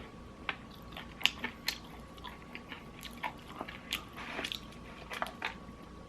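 Close-miked crunching and chewing of crispy fried-chicken breading: irregular sharp crunches, about a dozen, the loudest about a second in, with a denser crackly stretch a little past the middle.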